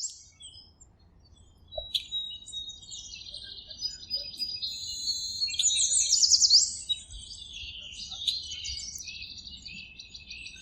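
Several small birds chirping and trilling at once, with rapid repeated high notes, busiest a little past halfway.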